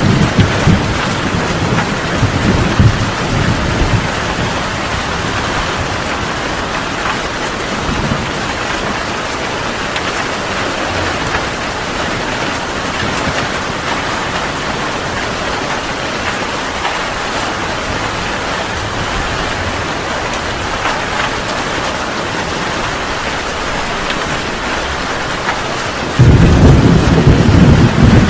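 Heavy rain falling steadily. A low rumble of thunder fades over the first few seconds, and a loud rumble of thunder breaks out suddenly near the end.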